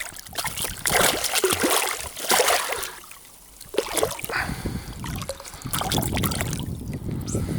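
Water splashing and trickling beside a kayak as a small caught pike is handled and unhooked, in uneven bursts with a short lull about three seconds in.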